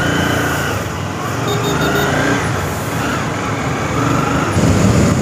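Honda CBR250R's single-cylinder engine pulling away from standstill at low speed, its note rising and falling a few times as the rider opens the throttle.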